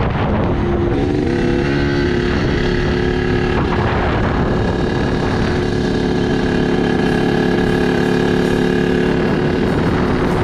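An engine running steadily. Its pitch shifts over the first few seconds, then holds.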